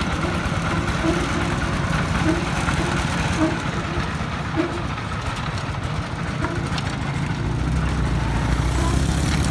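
Công nông farm truck's D22 diesel engine running, with a rapid, steady low pulsing; the low rumble gets fuller and a little louder near the end.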